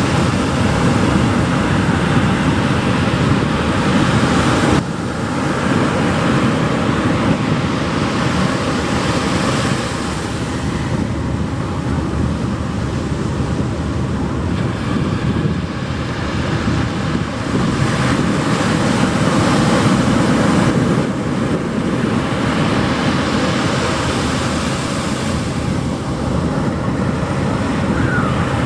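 Pacific surf breaking and washing up a sandy beach: a continuous rushing that swells and eases, with a sudden drop in level about five seconds in.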